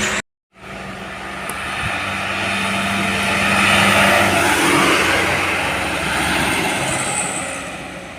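A heavy truck driving past on the road: engine and tyre noise swell to a peak about four seconds in, then fade as it moves away. The sound cuts out briefly near the start.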